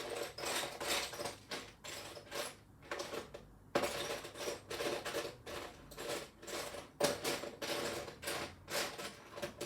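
Hands rummaging through loose plastic LEGO pieces, a steady clatter of small clicks and rattles with two sharper clicks about four and seven seconds in, as a particular piece is searched for.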